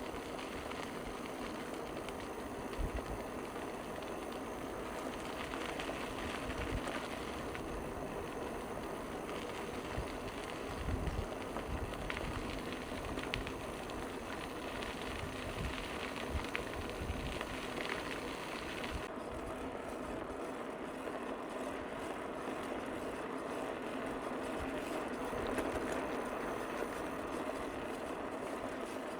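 Steady rolling and wind noise from a bicycle being ridden along a trail, with scattered small knocks from the ride; the hiss at the top end drops away about two-thirds of the way through.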